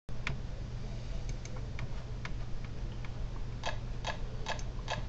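Scattered light clicks over a low steady hum, then four sharper ticks evenly spaced a little under half a second apart.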